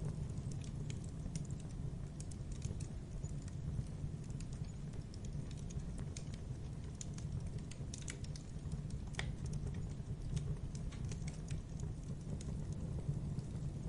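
Wood fire crackling in a fireplace: irregular small pops and snaps over a steady low rumble of the flames.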